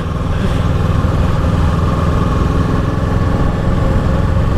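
Kawasaki Ninja 650's parallel-twin engine running steadily at a gentle cruise, with wind noise over it.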